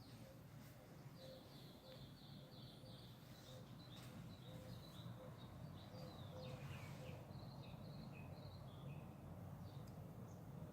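Faint bird chirping: several short runs of quick, high notes over a quiet steady background hum.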